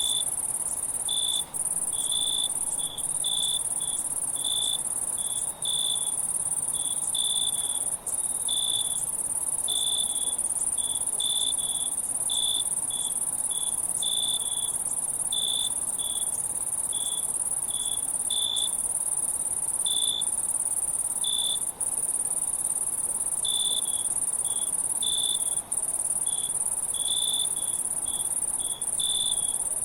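Insect chorus: a steady high-pitched trill, with a cricket chirping over it in short, irregularly spaced notes.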